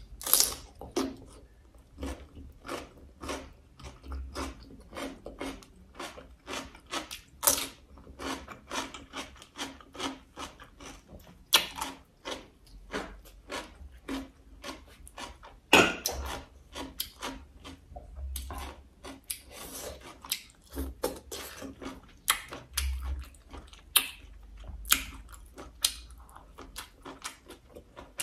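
Close-miked eating: crunchy bites of raw cucumber and wet chewing, a steady run of sharp mouth clicks and crunches a couple of times a second, with a few louder crunches.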